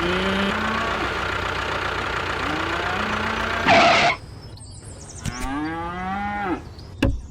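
Cattle mooing: several long calls that rise and then fall in pitch, over a steady low hum. A short, loud burst of noise breaks in about four seconds in.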